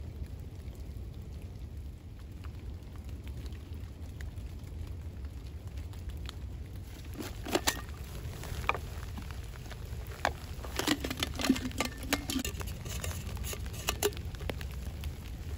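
Steady rain pattering, with a run of sharp clicks and knocks about halfway through.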